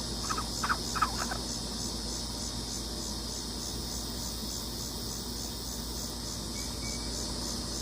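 A steady chorus of insects chirping, crickets by their sound, pulsing evenly and high-pitched, with a few short, quick chirps about a second in.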